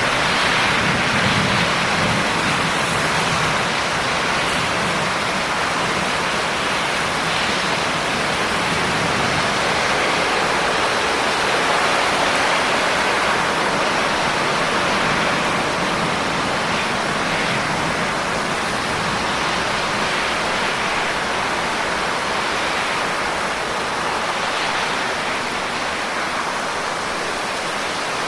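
Steady heavy rain, a dense even hiss of many drops with no single drop standing out.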